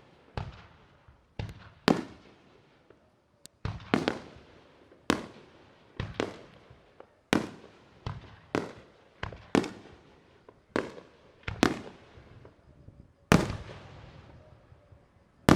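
Aerial firework shells bursting in quick succession: more than a dozen sharp bangs, about one a second and sometimes two in close succession, each trailing off in an echo.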